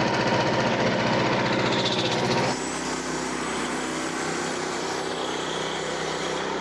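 Small gasoline engine of a portable band sawmill running steadily. About two and a half seconds in, the sound changes abruptly and becomes quieter and smoother.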